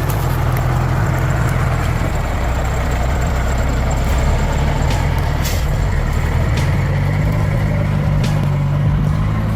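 Large truck engine running steadily, a low drone, with a few faint ticks over it.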